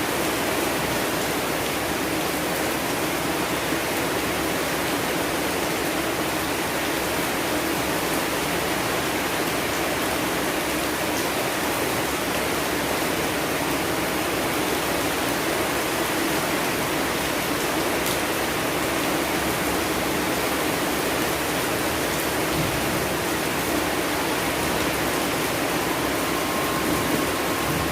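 Steady, heavy rainfall, an even hiss with no breaks. Near the end a low rumble of thunder begins.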